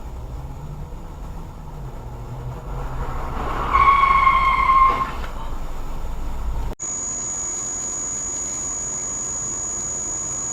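Car driving, with steady road and engine rumble heard from inside the cabin. A car horn sounds once, a single flat tone for about a second, a little before the middle. After a sudden cut, road rumble goes on with a thin, steady high whine.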